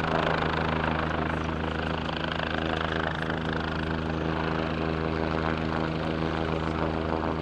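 Helicopter running steadily, an even buzz of rotor and engine that holds one pitch throughout.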